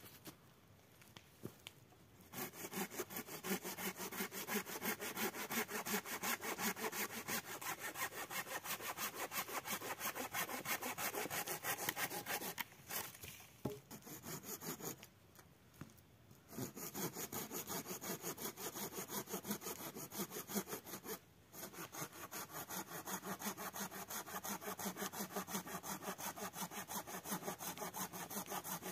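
Hand saw cutting through wood with fast, even back-and-forth strokes. It goes in several long runs broken by short pauses.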